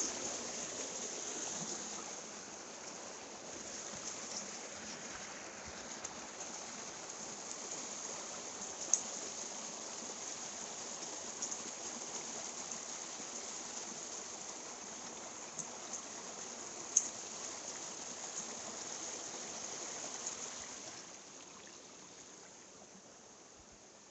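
Mountain stream water running steadily, with a few sharp clicks; the water sound drops off a little about 21 seconds in.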